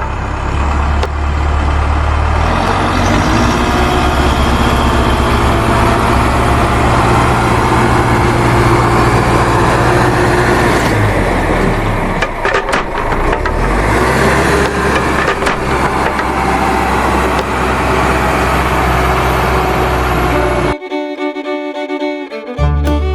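Homemade mini tractor running with a steady motor sound and clatter, with fiddle music mixed in. About twenty seconds in, the sound cuts abruptly to fiddle music alone.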